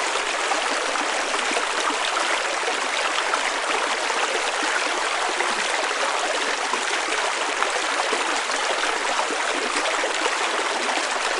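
River water rushing steadily, with no breaks or changes.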